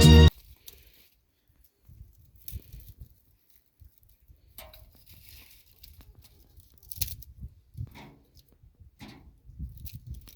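Faint, scattered rustling and light clicks and knocks of things being handled, with no steady tone. Loud background music cuts off just after the start.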